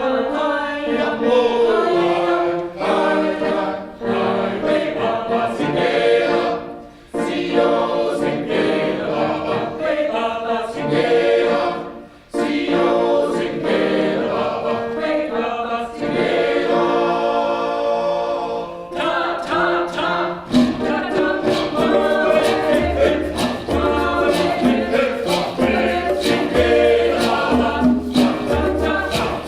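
Male choir singing a rhythmic a cappella piece, with short breaks about seven and twelve seconds in. From about twenty seconds in, quick sharp hits and a low pulsing beat join the voices.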